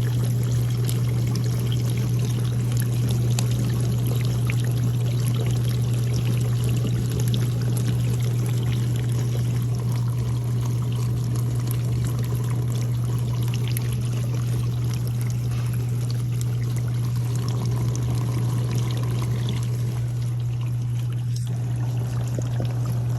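Dishwasher running its wash cycle: a steady motor hum under the sound of water spraying and splashing inside the tub.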